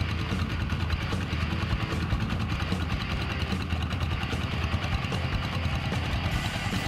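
Paddy-field plough tractor engine running steadily.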